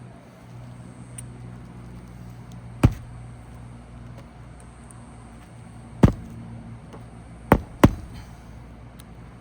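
Nails being driven into asphalt roof shingles: four sharp strikes, one about three seconds in, one about six seconds in, and a quick pair near the end.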